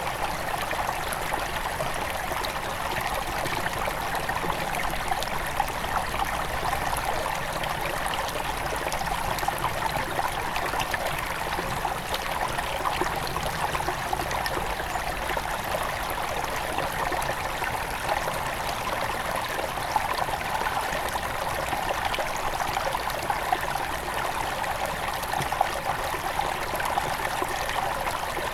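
A small river near its source flowing over stones: a steady rushing babble with many small splashes and trickles.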